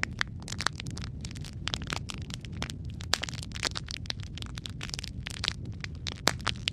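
Wood fire crackling and popping in a fireplace: irregular sharp snaps over a steady low rumble of flames, with a few louder pops.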